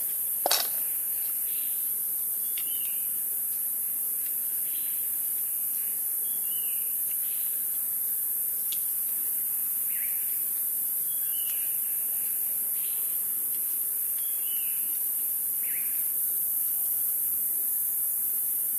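Outdoor ambience: a steady high-pitched hiss with short chirps repeating about every second or so, and one sharp click about half a second in.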